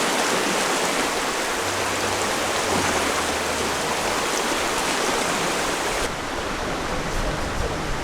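Rushing water: a steady, loud rush of flowing water. About six seconds in it becomes duller, with a low rumble underneath.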